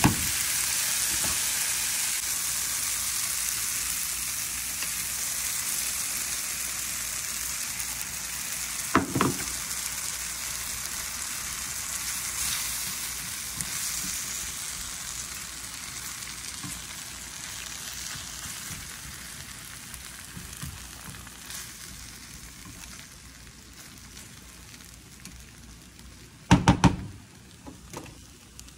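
Sausage, diced vegetables and eggs sizzling in a nonstick frying pan as a spatula stirs, the steady sizzle dying down gradually. A single knock about nine seconds in and a quick run of sharp knocks near the end.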